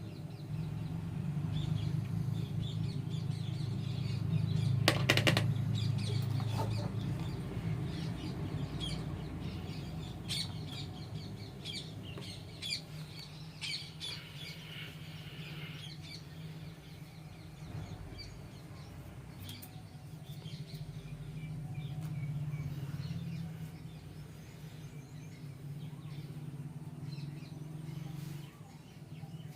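Birds chirping over a steady low hum, with a brief knock about five seconds in.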